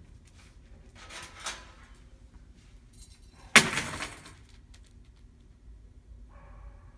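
A sudden loud crash, like a metal or hard object dropped or struck, about three and a half seconds in, clattering briefly before it dies away, with a softer rattle about a second in. This is typical of the startle noise made in a puppy aptitude test to check the puppy's reaction to sound.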